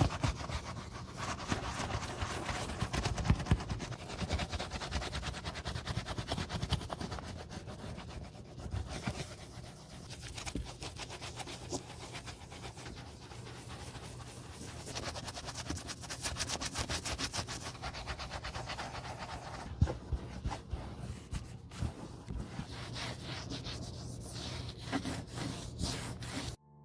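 Rapid, continuous rubbing and scrubbing strokes on boot leather, as in brushing or buffing during restoration, with a steady low hum underneath. It stops abruptly at the very end.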